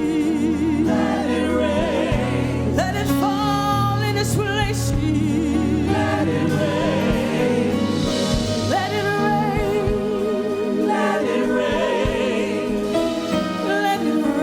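Gospel worship song: voices singing with wavering vibrato over a band with a held, changing bass line.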